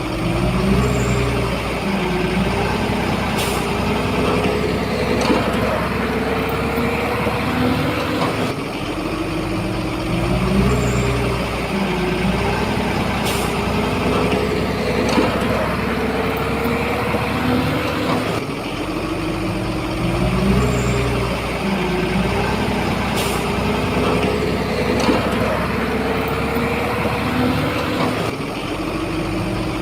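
Shantui bulldozer's diesel engine working under load, its pitch rising and falling as it pushes. The same rising-and-falling cycle repeats about every ten seconds.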